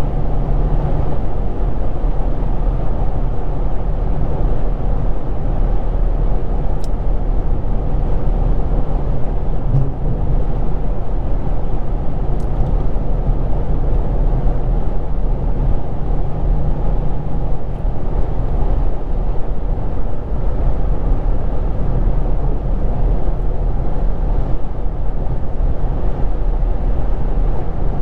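Infiniti G35 coupe's VQ35DE V6 with a Z1 touring exhaust running at a steady cruise, a low engine drone mixed with road noise and no hard revving.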